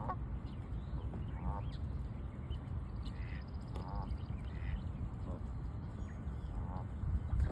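Ducks quacking in short calls, a few seconds apart, over a steady low rumble.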